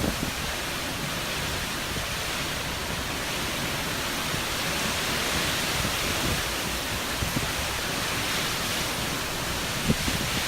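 Hurricane wind blowing steadily in a continuous rush, with a couple of short gusts buffeting the microphone near the end.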